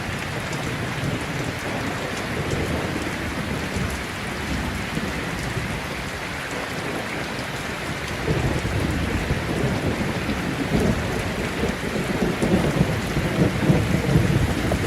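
Heavy rain falling steadily in a thunderstorm, with rolling thunder rumbling in about halfway through and growing louder toward the end.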